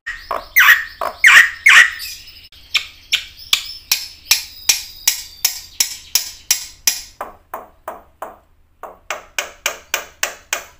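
Black-winged myna (white starling) singing: a few loud, harsh gliding calls in the first two seconds, then a long run of short sharp clicking notes, about three a second.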